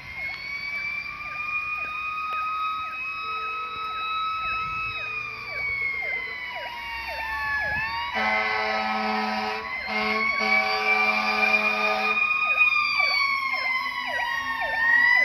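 Fire engine sirens on an emergency response: a slow rising-and-falling wail over a fast yelp. About eight seconds in, two long blasts of a fire truck air horn sound over the sirens.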